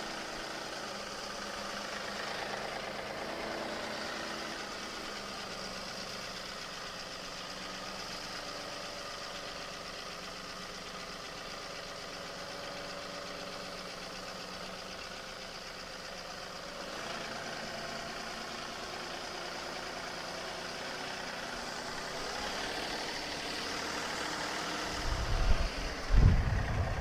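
John Deere 2038R compact tractor's three-cylinder diesel engine running as the tractor drives, its pitch shifting a little now and then. A steady hiss runs under it, and heavy low thumps start near the end.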